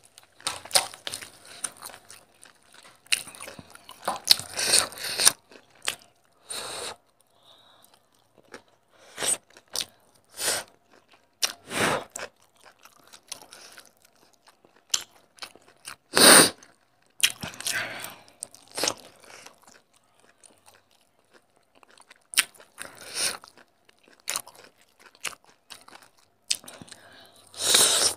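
A person eating chicken curry and rice by hand, chewing and biting meat off the bone. The sounds come in irregular bursts with short pauses between them, the loudest about 16 seconds in.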